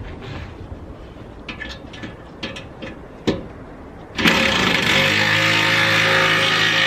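A few light clicks, then about four seconds in a power tool starts up and runs steadily with a loud buzzing whir, tightening a bolt on the truck bed.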